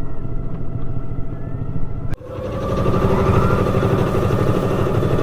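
Boat engine running steadily. The sound breaks off suddenly about two seconds in and then picks up again a little louder.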